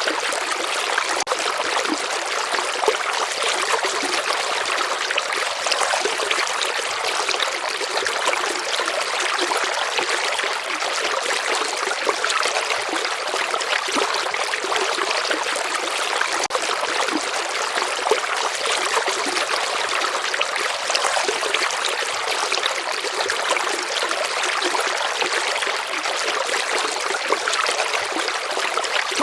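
Slow river water flowing steadily, an even rush of water with almost no low rumble.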